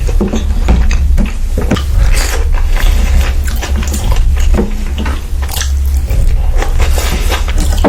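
Close-up chewing and biting of food, a quick run of mouth clicks and smacks over a steady low hum.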